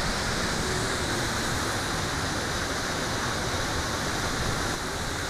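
Waterfall water rushing steadily, an even, unbroken hiss.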